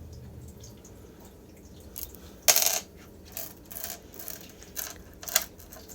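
Small tumbled crystals clicking and clinking against each other as they are handled, a sharp clack about two and a half seconds in followed by several lighter clicks.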